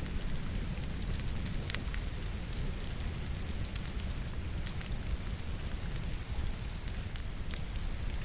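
Logs burning in a fireplace, crackling with a few sharp pops, the clearest about two seconds in and near the end, over a steady hiss of falling rain and a low rumble.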